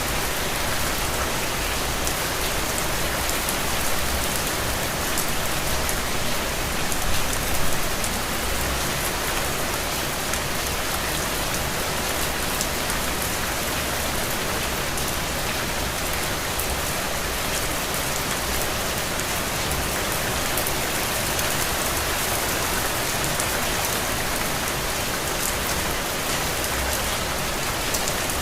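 Steady rain falling, a dense even hiss with fine pattering drops, a few slightly louder spatters around four to eight seconds in.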